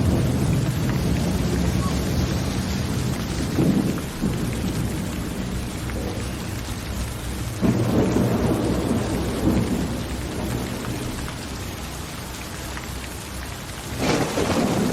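Steady rain with rolling thunder. The low rumble swells suddenly a little under four seconds in, again near eight seconds, and once more near the end.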